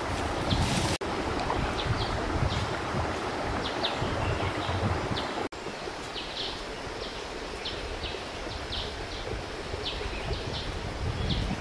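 Outdoor ambience: a steady rush with gusty low rumble of wind on the microphone, and short bird chirps repeating throughout. The sound drops out for an instant twice, at edit cuts.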